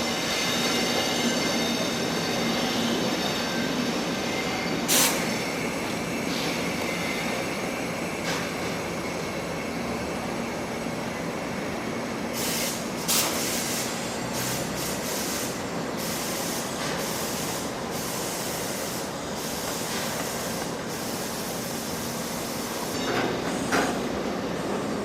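Limestone freight wagons moving through a station yard: a steady rolling rumble, with a faint high wheel squeal at first and sharp metallic clanks about five seconds in, around thirteen seconds and near the end.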